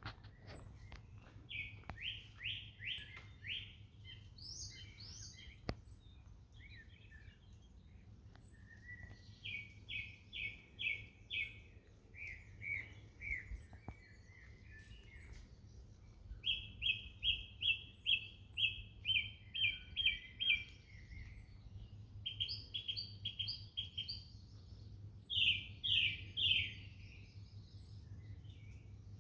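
Songbirds singing: several phrases of quick repeated chirping notes, each phrase lasting a second or a few seconds, with short gaps between them, over a steady low background rumble.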